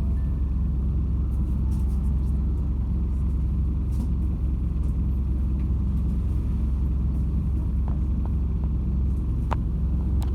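Inside the cabin of a MAZ-206 city bus on the move: a steady, heavy low rumble from the engine and running gear, with the strong vibration the rider complains of. A few light rattles, and one sharp click near the end.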